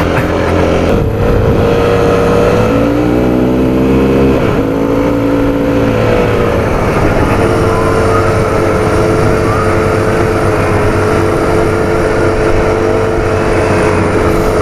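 A 2013 Yamaha WR250F's 250 cc single-cylinder four-stroke engine running under load off-road. The revs climb a few seconds in, drop suddenly, then hold fairly steady.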